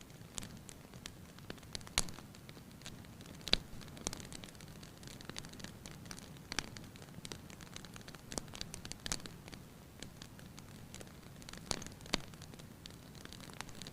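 Wood fire crackling in a fireplace: irregular sharp pops and snaps over a soft steady hiss, a few of them louder.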